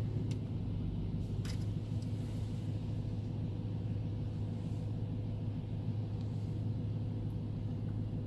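2010 BMW M3 E93's V8 engine idling with a steady low hum.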